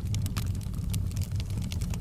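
Wood fire in a fireplace: a steady low rumble of flames with scattered, irregular crackles and pops from the burning logs.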